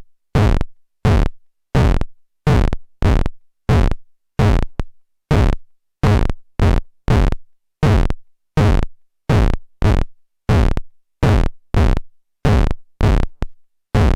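The amplified bioelectrical field of dry rot fungus (Serpula lacrymans) made directly audible: a rhythmic series of short noisy bursts, about one and a half a second, each fading fast with silence between.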